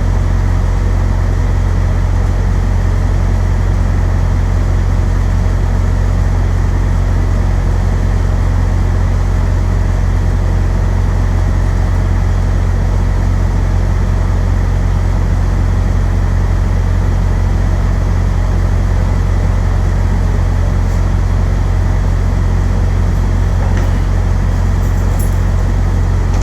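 Delivery truck idling: a steady, unchanging low engine hum, with a few faint clicks near the end.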